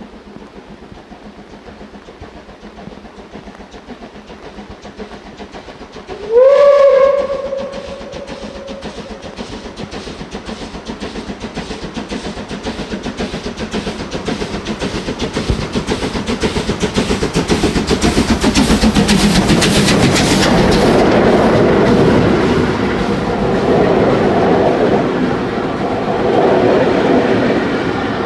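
DB class 23 steam locomotive 023 058-1 gives one whistle blast of about two seconds, about six seconds in, sliding up in pitch as it starts. Then comes a rapid, regular chuffing of exhaust beats that grows louder as the train approaches and passes, with the clickety-clack of its wheels on the rail joints.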